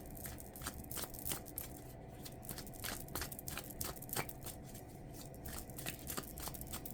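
Tarot cards being handled and shuffled: soft, irregular clicks and snaps, several a second.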